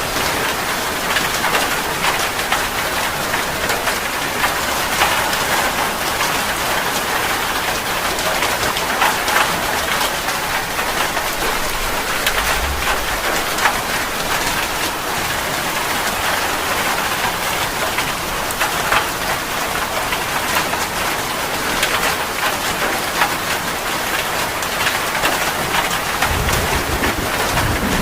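Steady heavy rain, a dense patter with individual drops striking a surface. Brief low rumbles come in about midway and again near the end.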